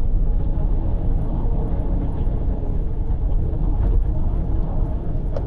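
Steady low road and engine rumble of a car cruising on an expressway, heard from inside the cabin.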